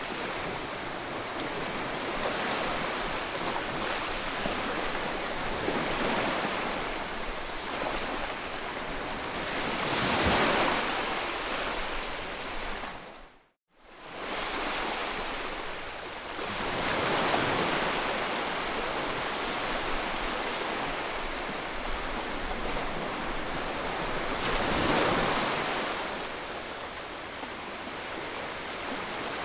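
Sea waves breaking and washing on a shore, a steady rushing hiss that swells with each breaker about every seven or eight seconds. About halfway through it cuts out to silence for a moment and comes straight back.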